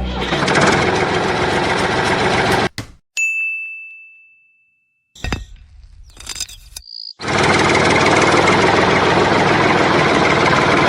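A motor or engine running steadily, cut off a few seconds in. A single ding rings out and fades. After a quiet gap with a few clicks, the motor running resumes about seven seconds in.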